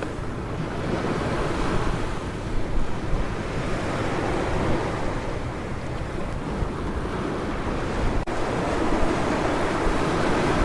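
Ocean surf washing onto a beach, a steady rushing hiss of breaking waves that swells louder near the end, with wind rumbling on the microphone.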